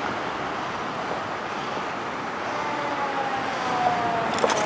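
Street traffic noise, with a faint tone sliding slowly down in pitch from about halfway through and a few sharp clicks near the end.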